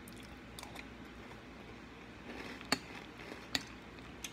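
Chewing a mouthful of crunchy corn-puff cereal with milk: quiet chewing broken by a handful of sharp crunches, two louder ones in the second half.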